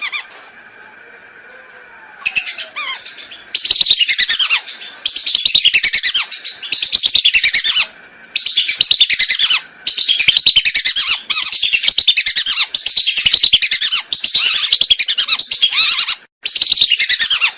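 Whistling ducks calling, as played from a lure-call recording: about ten bursts of rapid, high, chattering whistles, each a second or so long with notes that fall in pitch, starting about two seconds in.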